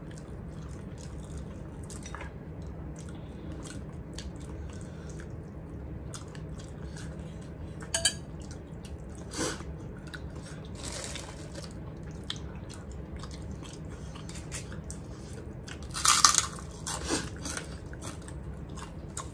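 Close-up chewing and mouth sounds of two people eating rice and fried pumpkin with their hands, over a steady low hum. A few sharper clicks break in, the loudest cluster about 16 seconds in.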